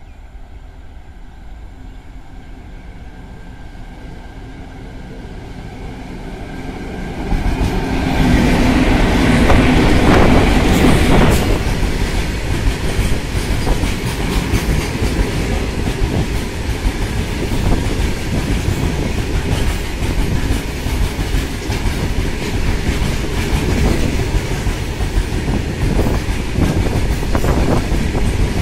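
Freight train hauled by twin WAG-5 electric locomotives approaching and passing at speed. Its sound grows for about seven seconds, is loudest as the locomotives go by, then settles into a long run of open box wagons rolling past with a steady clickety-clack of wheels over the rail joints.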